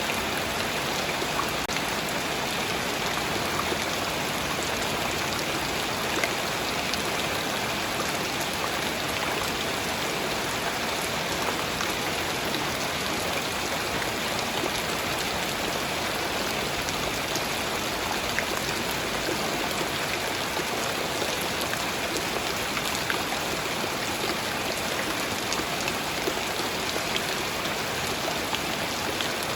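Steady light rain falling, an even hiss of rain with scattered small drop ticks.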